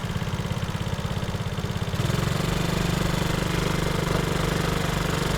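ATV engine running at idle with a fast, even chug; about two seconds in it gets louder and fuller and then holds steady.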